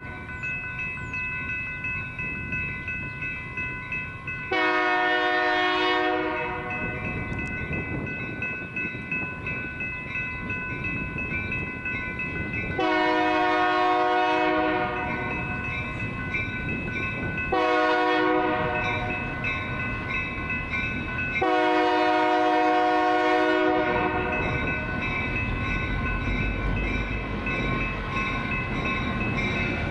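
Diesel freight locomotive horn sounding the grade-crossing signal: two long blasts, a short one and a long one, over a bell ringing steadily throughout. The locomotive's low engine rumble swells near the end as it passes.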